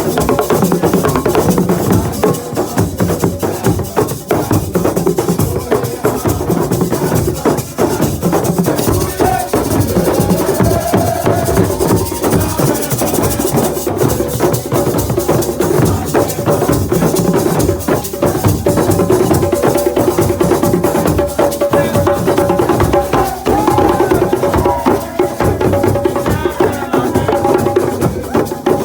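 Live group music: drums and hand percussion keeping a fast steady beat, with voices singing over it.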